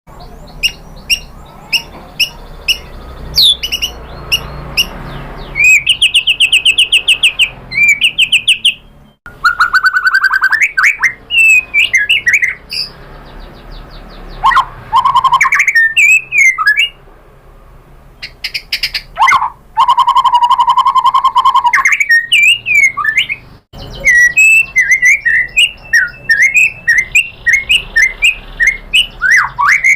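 White-rumped shama (murai batu) singing loudly: a varied, fast song of clear whistles, rapid trills and repeated sharp chirps in phrases separated by short pauses, packed with phrases mimicked from other birds.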